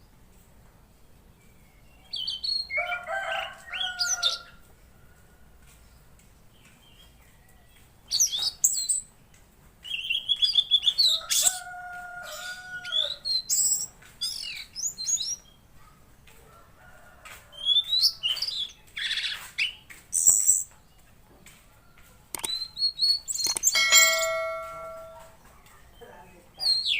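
Tledekan laut songbird singing in bursts of varied chirps, quick whistles and trills, some with short held notes, broken by pauses of a second or more.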